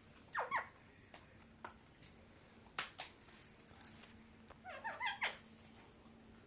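Pet parrot giving short chirping calls: a brief pair about half a second in and a quicker run of several near five seconds in, with a few sharp clicks in between.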